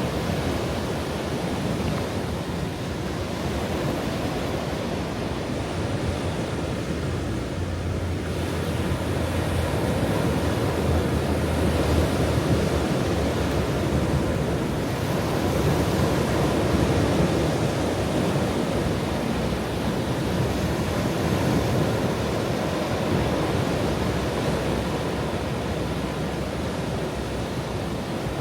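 Ocean waves washing onto a shore, a steady rushing surf that swells and eases gently without sharp breaks.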